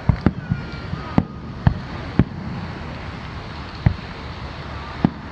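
Aerial fireworks going off: a string of about eight sharp bangs at uneven spacing, several close together in the first two seconds and two more near the end.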